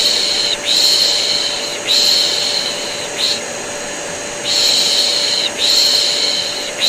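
A vacuum cleaner runs steadily under rhythmic shushing. The shushes come as three long "shh" sounds of about a second each, then a short one, then a brief pause, and the pattern repeats. The combination is used as white noise to soothe a colicky baby.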